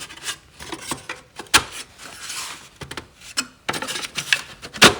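Wooden divider insert being worked into a tight fit inside a wooden toolbox: wood scraping and rubbing against wood, with scattered knocks and clicks, a sharp knock about a second and a half in and another near the end.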